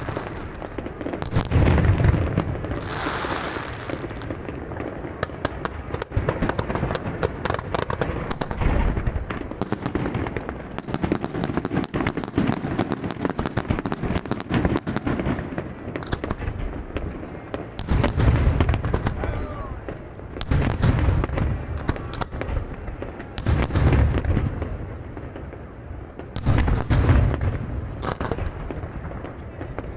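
Aerial fireworks display: continuous dense crackling and popping of shells bursting, with heavy low booms of larger shells every few seconds.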